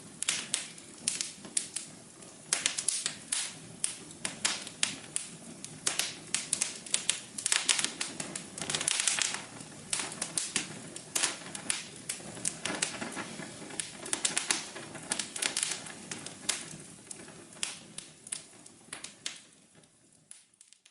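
Wood fire crackling: irregular sharp pops and snaps over a low steady hiss, fading out over the last couple of seconds.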